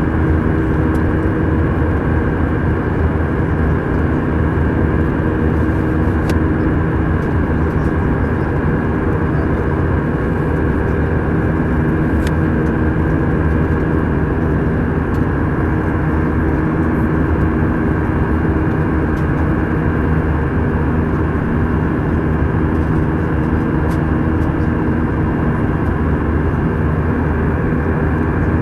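Steady cabin noise of an Airbus A319 in flight, heard from inside the cabin: a constant jet-engine drone and airflow rush with several steady hum tones underneath.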